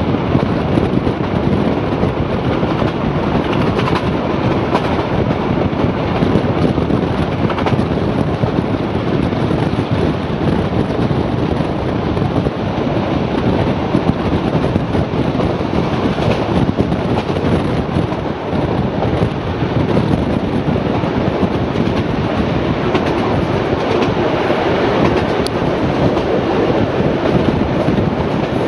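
Heritage passenger carriage running at speed behind diesel locomotives, heard from an open window: a steady loud rumble of wheels on rail with rushing air, and a few faint clicks from the track.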